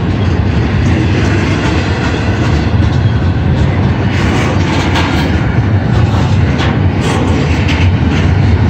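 Freight train passing over a grade crossing: a steady, loud rumble of the rolling cars with faint irregular rattles and squeaks above it.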